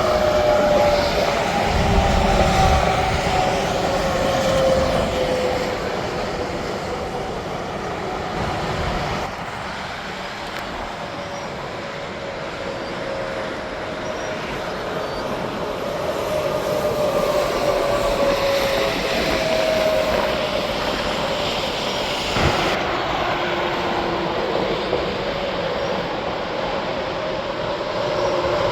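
Interstate highway traffic: semi trucks and other vehicles passing at speed in a steady rush, the drone of each passing truck sliding slowly down in pitch as it goes by.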